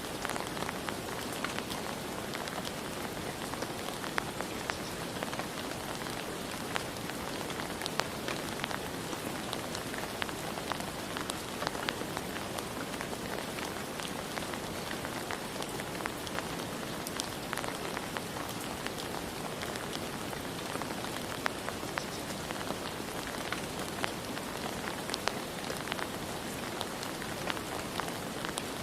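Steady rain falling, a continuous patter with many individual drops ticking sharply on a hard surface.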